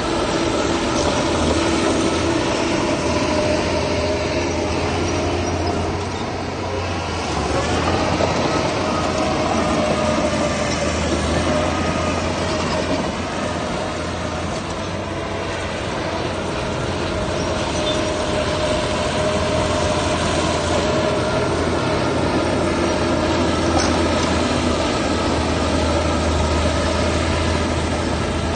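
Heavy diesel machinery running steadily, a deep engine hum under a high whining tone that rises in pitch about a third of the way through.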